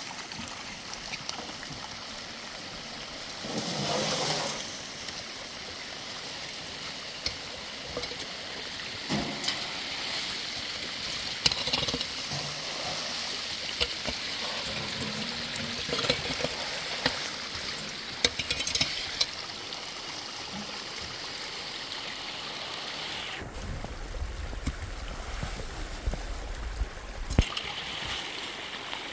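Running water rushing steadily, with scattered clicks and knocks and a louder swell about four seconds in. Near the end, for about four seconds, the rush drops away and a low rumble takes its place.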